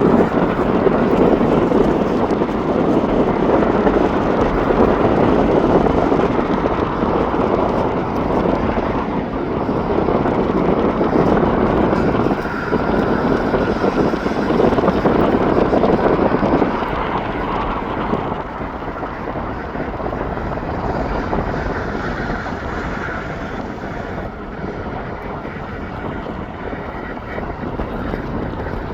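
Jet airliner's engines running loud as the aircraft passes, with a faint whine on top; the roar holds for about the first two-thirds, then slowly fades away.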